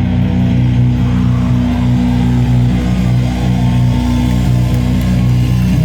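Live doom metal band: distorted electric guitars and bass holding a low, droning chord.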